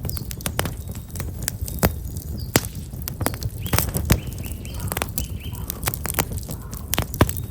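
Black locust firewood burning with irregular sharp crackles and pops over a steady low rush of the fire. Small birds chirp faintly a few times in the middle.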